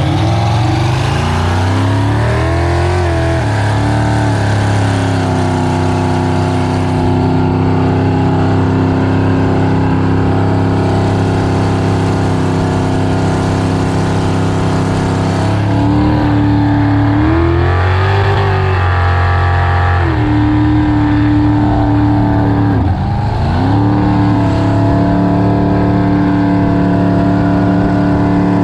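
Supercharged 468 V8 with an 8-71 blower in a jet boat running under way, mostly holding a steady note, with the pitch swinging down and back up as the throttle changes a few seconds in, again around the middle, and once more shortly after.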